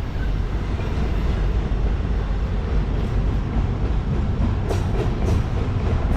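Freight train rolling past, a steady low rumble with a couple of sharp clicks near the end.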